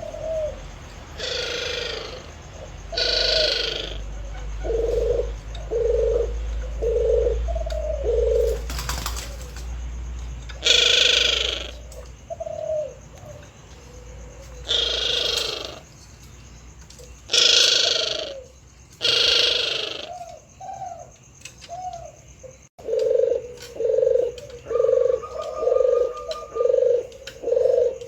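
Male puter dove cooing in runs of short, low coos at about one a second, with a quicker, steady run near the end. About six loud, hissy bursts of roughly a second each break in between the coos.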